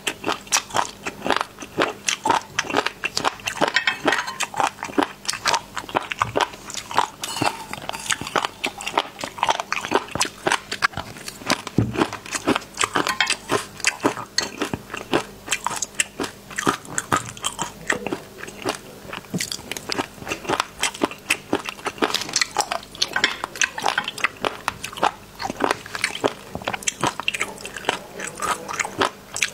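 Close-miked eating: steady crunching and chewing of spicy seafood, many crisp bites a second with no pause.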